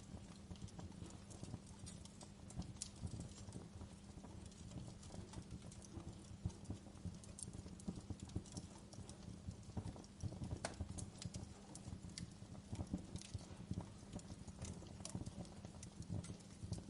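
Wood fire burning in a fireplace, crackling and popping irregularly over a steady low background.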